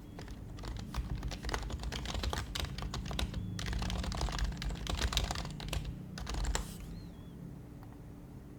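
Typing on an HHKB Professional HYBRID Type-S keyboard, its silenced Topre switches giving soft, quick keystrokes. The typing starts about half a second in, pauses briefly near the middle and stops about two seconds before the end.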